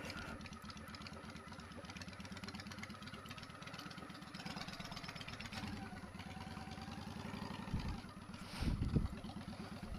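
Motorcycle engine idling steadily with an even low pulse; two short, louder low rumbles come near the end.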